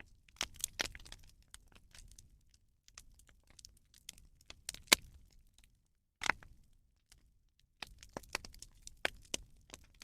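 Rubbish fire crackling, with irregular sharp pops and snaps and one loud pop about halfway through.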